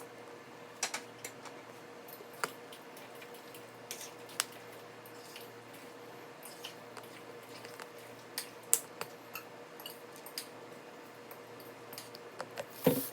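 Scattered faint clicks and taps from handling a plastic bottle of light corn syrup while it is slowly poured, over a steady low hum. The thick syrup itself pours almost silently.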